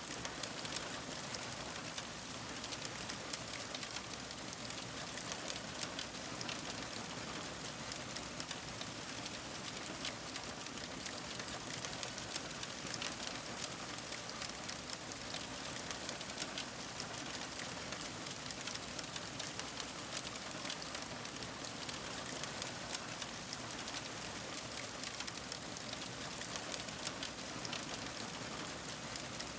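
Fire crackling steadily: a dense run of small pops and snaps over a soft hiss.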